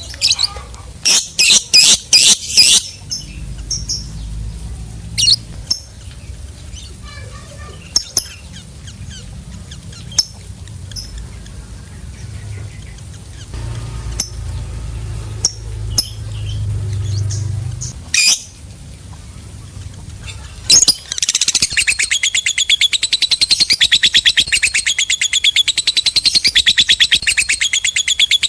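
Lovebird calling: a few loud, sharp chirps at the start and scattered single chirps, then about 21 seconds in a long, fast, unbroken chattering trill (the 'ngekek panjang') that keeps going.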